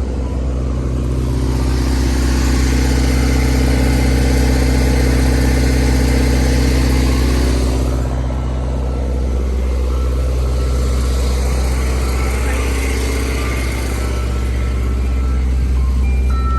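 Motor vehicle engine running with a steady low drone. The road and engine noise swells about a second in, fades around eight seconds, then swells again from about ten seconds.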